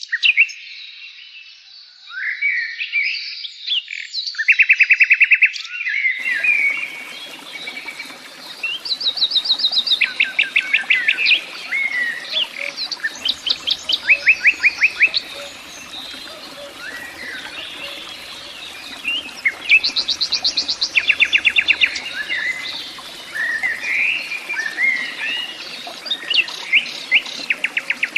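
Pied bushchat (decu) singing: short varied chirps and whistles broken every few seconds by rapid buzzy trills of about ten notes a second, each lasting about a second. About six seconds in, a steady background hiss joins the song.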